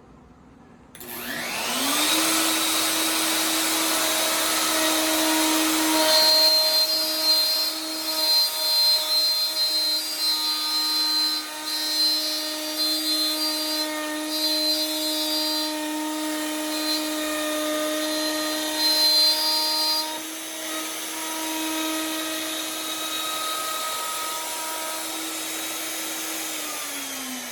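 Festool OF 1400 router switching on about a second in, spinning up to speed, then cutting a groove with an 8 mm downcut spiral bit, its loudness rising and falling as the bit takes the cut. It is switched off near the end and spins down.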